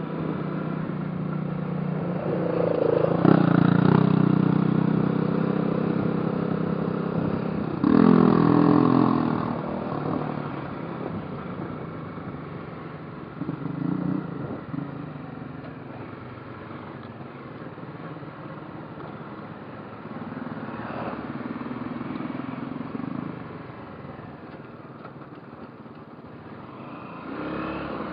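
Motorcycle engine running under way, the revs climbing hard about three seconds in and again about eight seconds in, with smaller accelerations later on.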